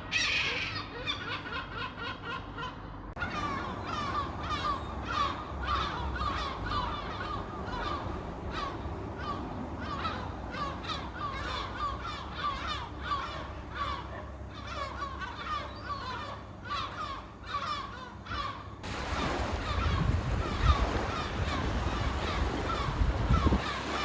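A flock of seagulls calling, many short squawking calls overlapping. Past the middle a low rumble joins in.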